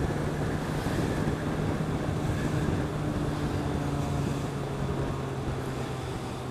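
Suzuki Bandit 650's inline-four engine running at steady revs while the motorcycle filters between lanes of cars, with wind noise over the helmet microphone.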